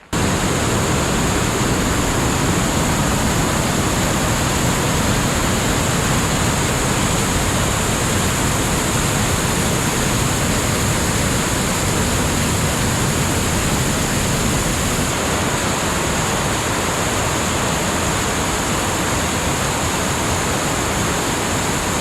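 Waterfall rushing: a loud, steady roar of falling water with no change in it, starting and stopping abruptly at a cut.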